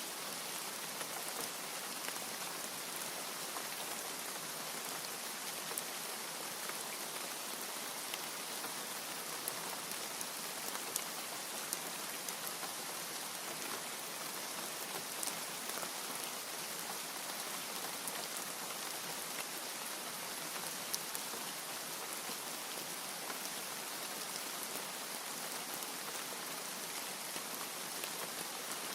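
Steady rain falling, an even hiss scattered with the sharp clicks of single drops.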